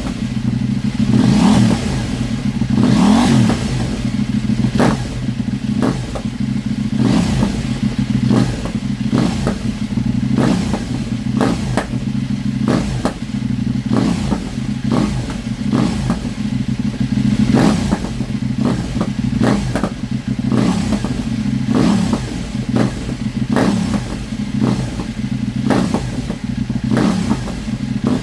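KTM 790 Duke's parallel-twin engine running through an Austin Racing GP1R slip-on exhaust with the dB killer removed, mostly a steady idle with brief throttle blips in the first few seconds. Frequent short sharp pops are heard through the running.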